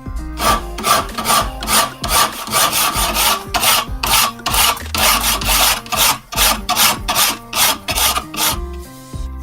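Rhythmic back-and-forth abrasive strokes worked by hand, about two to three a second, as metal or wood is filed or sanded down, with background music underneath.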